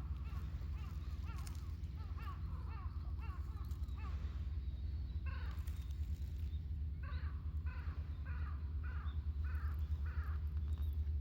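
Crows cawing in a rapid series, a run of about six caws late on, over a steady low rumble.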